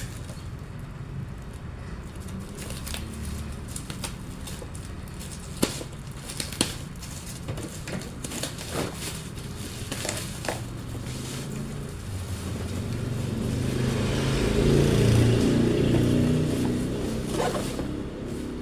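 Small cordless handheld vacuum cleaner running, with scattered clicks and crackles like debris rattling through the nozzle; the noise swells louder for a few seconds about two-thirds of the way through.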